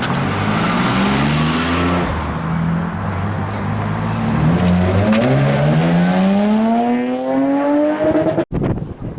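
Motor vehicle engines running, then accelerating with their pitch rising steadily over several seconds as they pull away. The sound cuts off abruptly near the end, leaving wind noise on the microphone.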